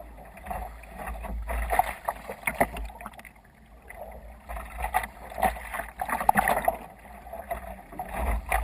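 Water splashing and slapping against the hull of a sea kayak under sail in waves, coming in irregular surges, over a low wind rumble.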